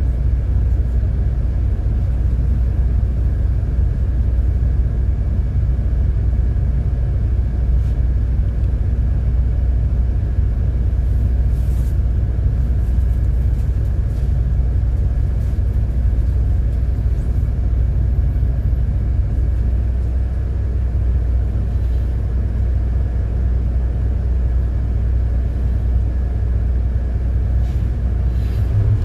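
City bus driving along steadily, a continuous low engine and road rumble with no sudden changes.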